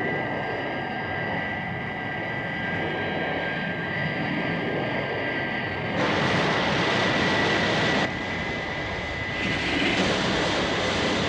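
Thunderbird 2's jet-engine sound effect as the craft comes in to hover on its vertical jets: a steady high whine over a rushing roar. It jumps louder about six seconds in, drops back two seconds later, and rises again near the end.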